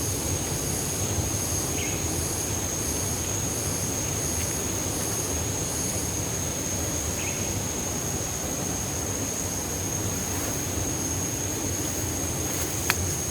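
Rushing water of a waterfall stream, a steady even roar, with a constant thin high whine above it and a single sharp click near the end.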